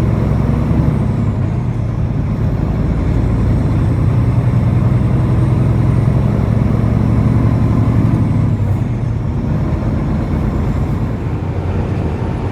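Semi truck's diesel engine running while driving, heard from inside the cab with steady road noise. The low engine hum grows fuller in the middle and eases off about two-thirds of the way through.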